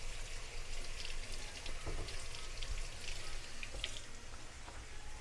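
Flour-battered rabbit pieces deep-frying in oil in a cast-iron skillet: a steady sizzle with scattered light crackles.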